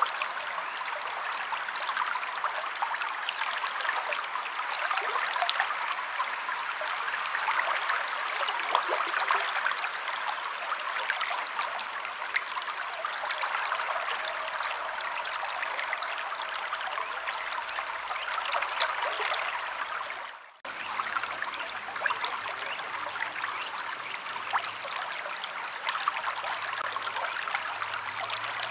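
Stream water running and trickling steadily, with a few short, faint, high bird chirps. The sound dips out for a moment about twenty seconds in and comes straight back.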